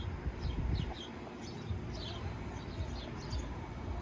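Small birds chirping: short, high chirps repeated many times over a steady low rumble.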